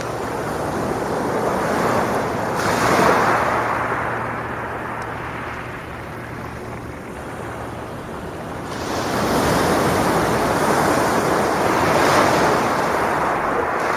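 Sea waves washing in on a beach: a rushing surge about three seconds in, a calmer wash, then a longer surge from about nine seconds.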